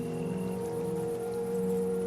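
Slow ambient music of held, overlapping low tones in a singing-bowl-like drone, shifting gently, over a faint steady hiss.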